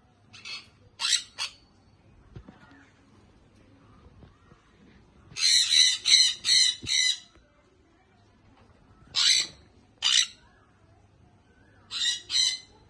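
Young sun conure squawking: short, harsh, high-pitched calls in clusters of two to four, separated by pauses of a few seconds.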